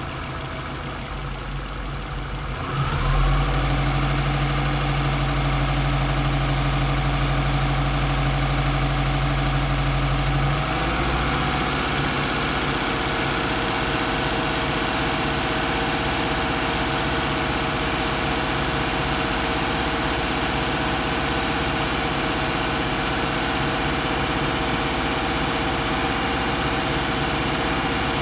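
Subaru EJ207 2.0-litre turbocharged flat-four idling warm, with a louder steady low drone from about three seconds in until about ten seconds in. The engine has combustion gases in its cooling system, which the owner takes for a failed head gasket or a cracked head.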